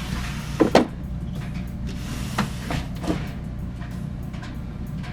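GE clothes dryer running: a steady low motor-and-drum hum with a few sharp knocks, the loudest pair about a second in. The complained-of noise is not heard; it runs without it.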